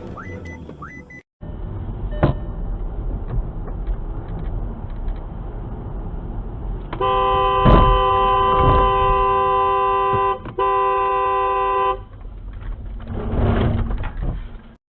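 Car horn sounding one long blast of about five seconds, briefly interrupted partway, over steady road and engine noise. A few sharp knocks come before and during it.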